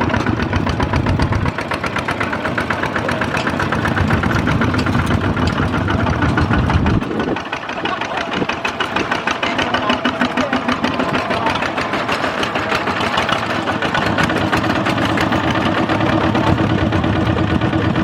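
Diesel tractor engine running steadily, its note shifting about a second and a half in and again around seven and fourteen seconds.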